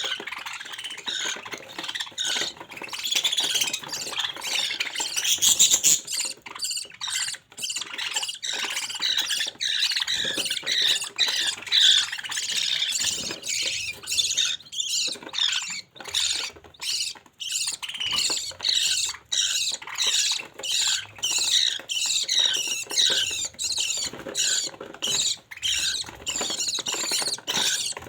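Budgerigar chicks calling: a continuous chorus of high, scratchy chirps and squeaks that settles into a rapid, fairly even run of short calls, about two a second, in the second half.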